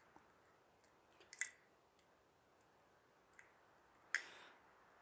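Faint, sharp clicks of small carburettor parts (float, float pin and float valve) being handled and fitted: a quick cluster about one and a half seconds in and a single click with a brief rustle about four seconds in.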